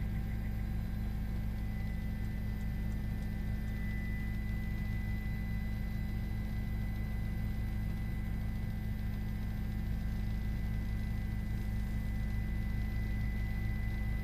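Steady low hum with a faint, thin high tone above it, unchanging throughout.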